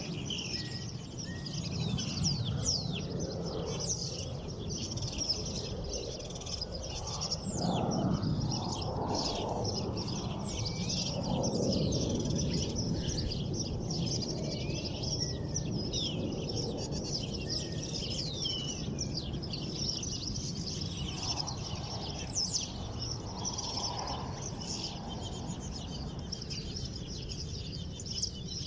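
Many small birds chirping and twittering at once, quick overlapping high calls throughout, over a steady low background noise.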